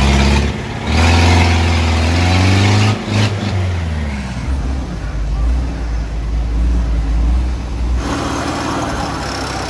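Vehicle engine revving hard for about three seconds, then running more evenly at lower revs.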